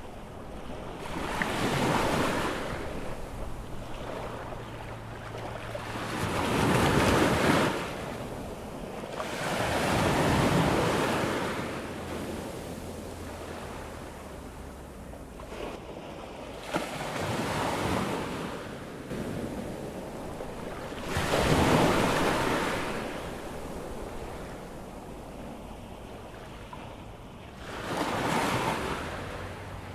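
Ocean surf on a sandy beach: about six waves break and wash up one after another, each a swell of rushing water that rises and dies away over a few seconds.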